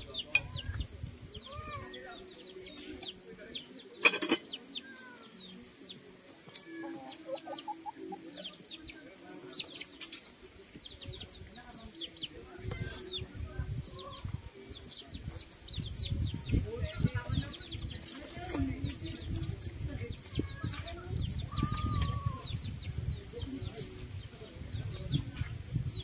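Birds chirping, many short high calls repeating throughout. Two sharp knocks stand out, about half a second and four seconds in, and a low rumble comes in after the middle.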